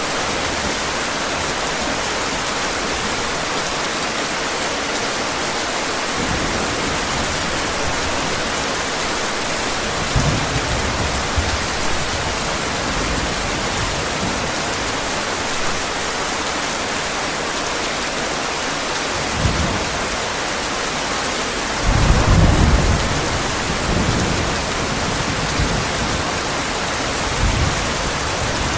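Heavy rain falling steadily, with several low rumbles of thunder. The loudest roll comes about two-thirds of the way through.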